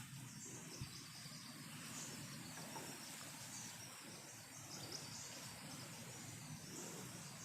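Faint insects chirping in a steady repeated pattern over a low background hum.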